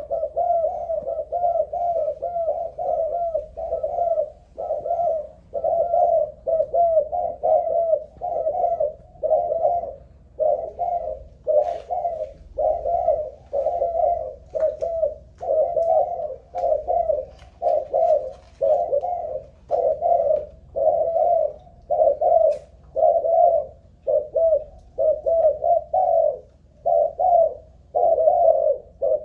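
Spotted dove cooing over and over, one short phrase after another with brief gaps between them.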